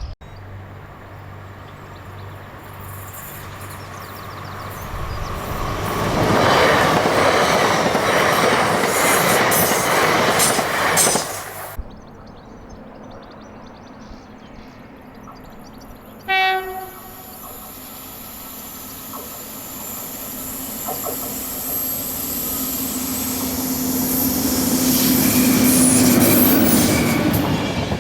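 A train passing with rising rail noise that cuts off abruptly. About halfway through a short two-tone horn blast sounds, then a train approaches again and grows steadily louder, loudest near the end, with clickety-clack from the wheels.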